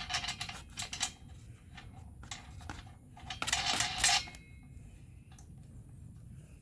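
Small steel parts clinking: nuts, washers and bolts being handled and fitted by hand onto the tow bar mounting. There are scattered light clicks in the first second and a denser, louder rattle of metal about three and a half seconds in.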